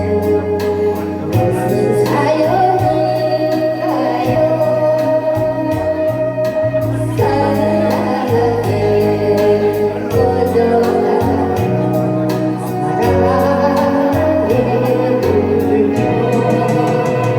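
A song with singing over a backing track, with a steady bass beat.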